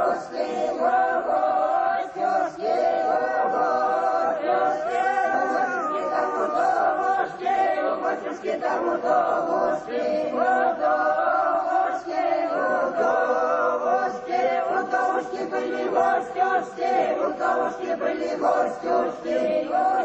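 A choir singing unaccompanied, several voices together in long held notes.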